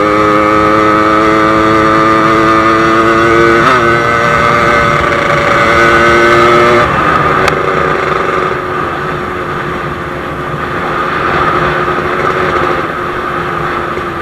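Yamaha RX-King's 135cc two-stroke single-cylinder engine running under way, heard from the bike. Its note climbs slowly, breaks briefly about four seconds in, then falls to a lower, rougher note about seven seconds in as the revs come down.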